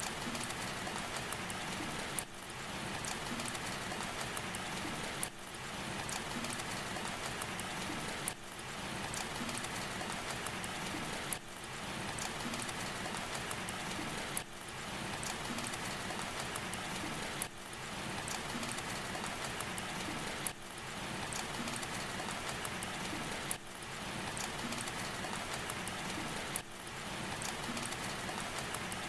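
Fireplace fire crackling and hissing steadily, as a short ambience loop that repeats about every three seconds with a brief dip at each seam.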